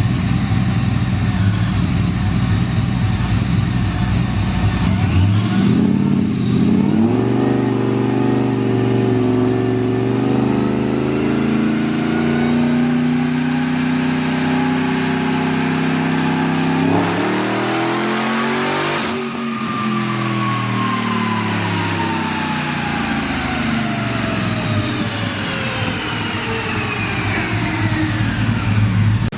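Car engine rumbling at idle, then revving up and holding high revs for about ten seconds, revving higher still, and winding down slowly over about ten seconds with a thin falling whine.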